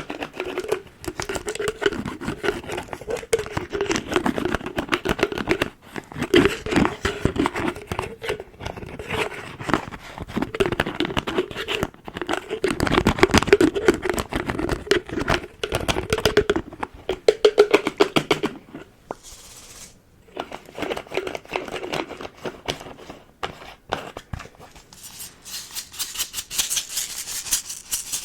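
Close-miked container lid being tapped, scratched and worked, making dense rapid clicks and scratching. There is a short lull about two-thirds of the way through, and a faster, hissier rubbing near the end.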